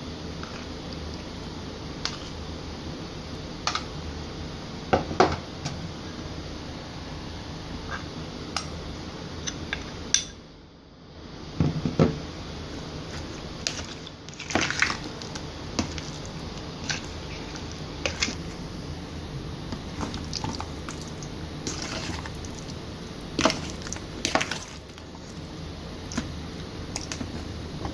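Kitchen utensils and dishes clinking and knocking at irregular intervals over a steady background hiss.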